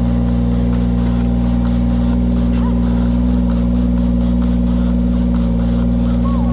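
Engine of a firewood-splitting machine running steadily at a constant speed, a loud even drone that does not change.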